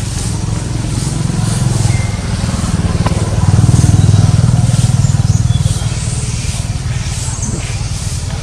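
A motor engine running close by with a low, steady rumble. It grows louder about three and a half seconds in and eases off a couple of seconds later.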